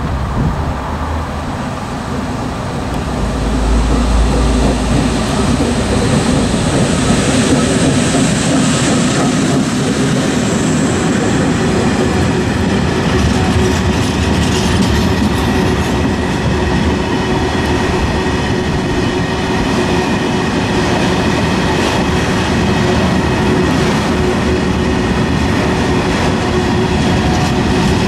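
ET22 electric freight locomotive passing close by, the sound swelling about three seconds in, followed by a long train of Falns self-discharging hopper wagons rolling steadily past. Wheels rumble on the rails, with scattered clicks over the joints.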